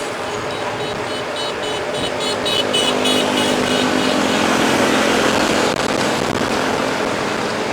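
Mountain bike in motion: rushing wind on the microphone with rolling noise, growing louder a few seconds in, and a quick run of repeated high chirps near the start.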